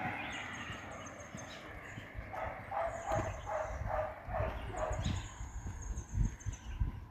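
A dog barking in a quick run of about six barks, with high thin trills from birds or insects coming and going.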